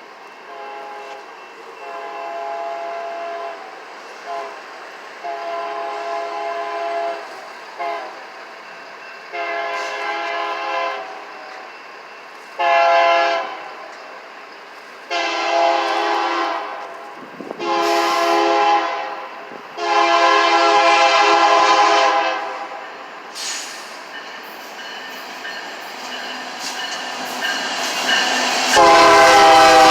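Locomotive air horn sounding a long series of blasts, several tones at once, growing louder as the train approaches. Toward the end the train's rumble builds and is loudest as it arrives, with the horn still sounding.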